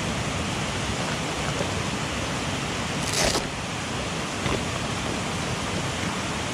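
Steady rushing of a mountain stream, with one short sharp hiss about three seconds in.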